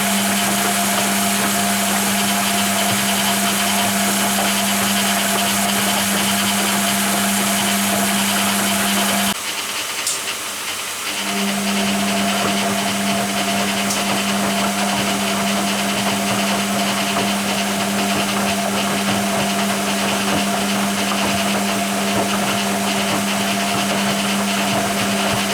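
Hoover Keymatic A3112 washing machine in its dilution fill: a steady machine hum over a hiss of water coming into the drum. The hum and hiss stop for about two seconds around nine seconds in, then start again.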